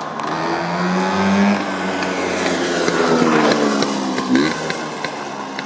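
A motor engine revving: its pitch climbs, holds, then sinks over a couple of seconds before a quick upward blip about four and a half seconds in. A few sharp clanks come near the end.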